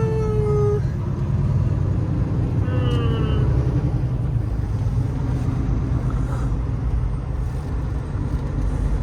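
Semi truck engine and road noise heard inside the cab while driving, a steady low rumble. Two brief falling squeaky tones cut through it, one right at the start and one about three seconds in.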